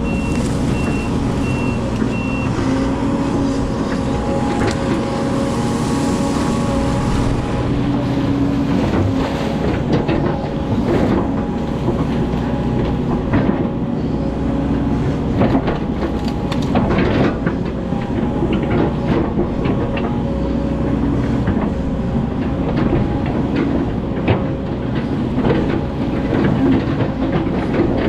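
Hydraulic excavator working, its engine and hydraulics running steadily, with repeated knocks and clatters from the machine at work clearing brush and mud. A quick run of short beeps sounds at the start.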